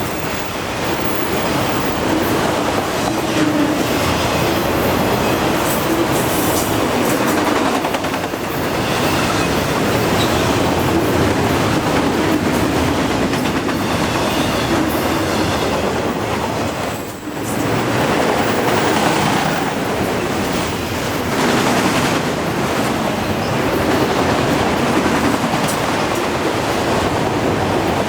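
Freight cars of a long freight train rolling past at about 34 mph, a steady rumble with wheels clacking over the rail joints. It goes briefly quieter once about two-thirds of the way through.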